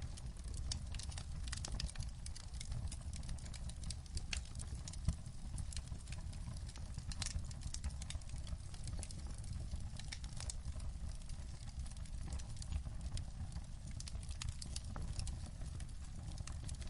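Wood fire crackling in a fireplace: dense, irregular pops and snaps over a steady low rumble, with one sharper pop about five seconds in.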